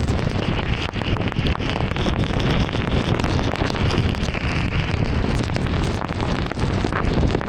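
Heavy rain hitting a moving car, many fast ticks of drops over a steady low rumble of tyres on a wet road.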